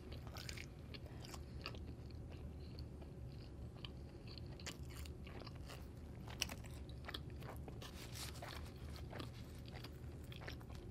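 Close-up chewing of pizza, with small crunches and wet mouth clicks scattered throughout, over a faint steady low hum.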